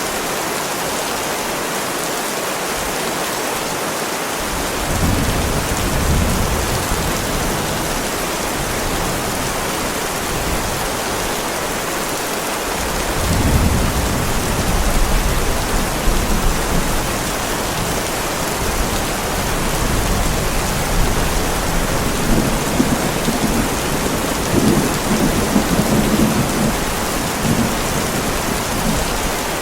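Heavy rain falling steadily on a driveway, with thunder rumbling low three times: about five seconds in, again near thirteen seconds, and a longer rolling peal in the last third.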